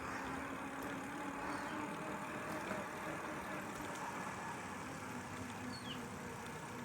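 Steady hum of motor traffic on a road, with a faint even engine tone under it and a brief high chirp near the end.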